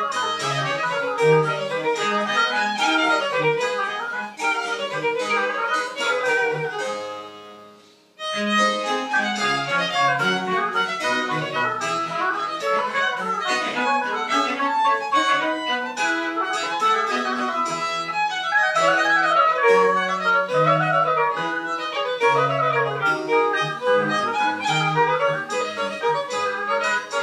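Live French Baroque chamber music with a violin prominent, played in quick, busy notes. About eight seconds in the music dies away and then starts up again abruptly.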